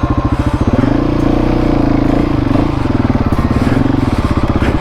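Husqvarna 701 Enduro's single-cylinder engine pulling hard through deep sand, revving up about a second in and easing back down a second or so later.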